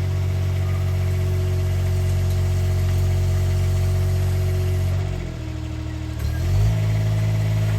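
An engine running at a steady speed. About five seconds in its pitch drops, then climbs back up about a second and a half later.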